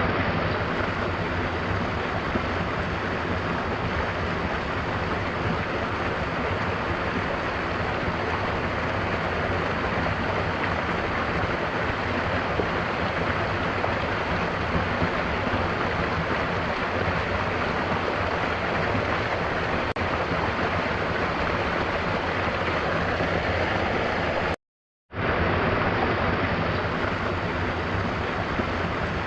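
Mountain waterfall rushing steadily. The sound cuts out completely for about half a second near the end, then resumes.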